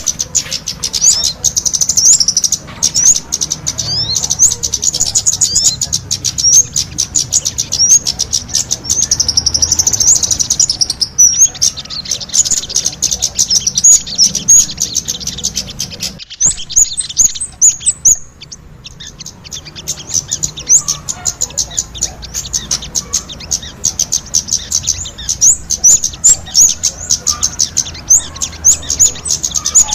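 Kemade and sogon songbirds singing vigorously together: a dense, rapid stream of high-pitched chirps and twitters, with a brief pause about sixteen seconds in.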